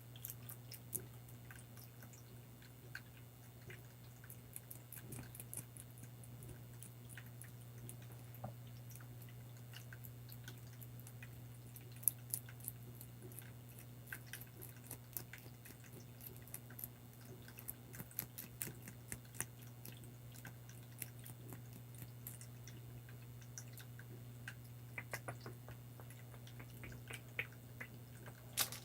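Small irregular water drips and wet ticks, close up, over a steady low hum.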